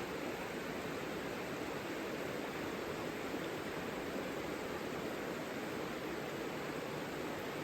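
Savica river flowing: a steady, even rush of water with no breaks.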